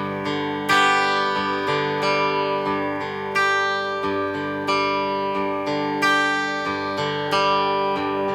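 Acoustic guitar strummed in an instrumental break between sung verses, chords struck about every second and a bit and left ringing.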